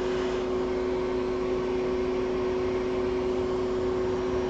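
Steady fan hum: an even hiss with a low, constant tone running through it, without change.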